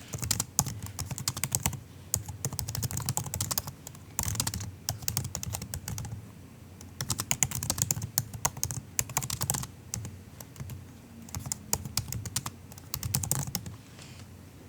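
Typing on a MacBook's low-profile laptop keyboard: soft, quick key clicks in bursts of a second or two, with short pauses between them, stopping near the end.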